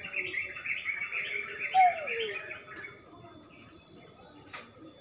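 Birds twittering in a rapid run of chirps for about three seconds, with one louder falling call about two seconds in.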